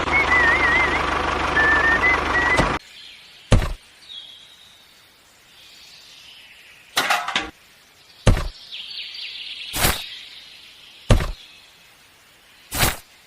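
A loud, steady machine-like sound with a wavering, gliding tone cuts off suddenly about three seconds in. After that come about six separate sharp knocks and clinks, a second or two apart, over faint background noise.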